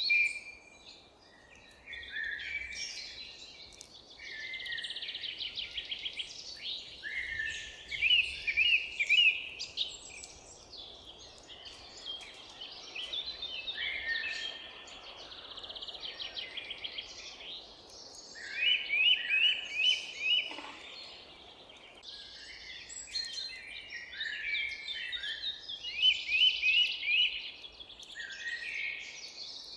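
Several songbirds singing at once, a chorus of overlapping songs with fast trills of repeated down-slurred notes, over a faint steady background hiss.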